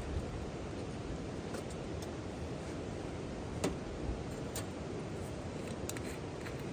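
Steady hiss of autumn rain with a wood campfire crackling: a few scattered sharp pops, the loudest about three and a half seconds in.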